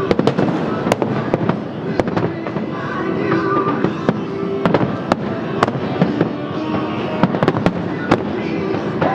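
Fireworks show: many sharp bangs and crackles in quick, irregular succession, with music playing underneath.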